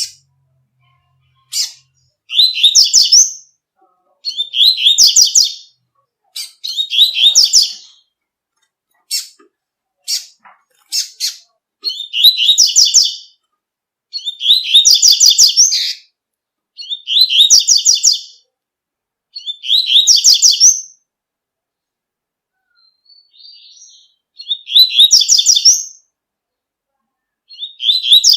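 Double-collared seedeater (coleiro) singing its 'tui-tui' song: fast, high trilled phrases about a second long, repeated every two to three seconds, with a few single short chips between phrases about ten seconds in.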